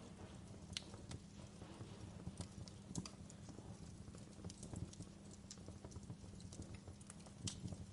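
Wood fire crackling: irregular sharp pops and snaps, a few louder ones, over a low steady rumble of burning.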